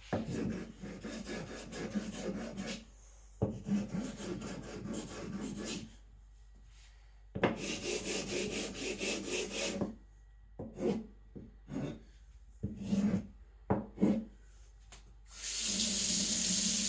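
Naniwa Aotoshi 2000-grit water stone scraped against an Atoma 140 diamond plate: three long rasping passages, then a series of short quick scrapes as the stone's corners are chamfered. Near the end a tap starts running steadily.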